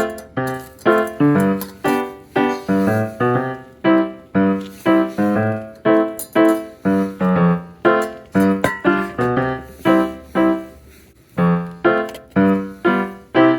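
Background piano music: a steady run of struck notes, two to three a second, each fading quickly, with a brief pause about eleven seconds in.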